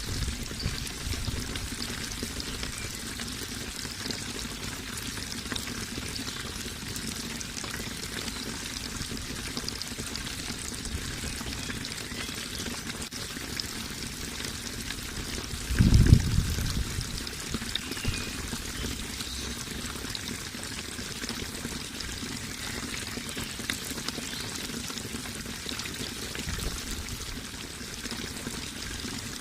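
Running water pouring and splashing steadily. About halfway through there is a brief low rumble.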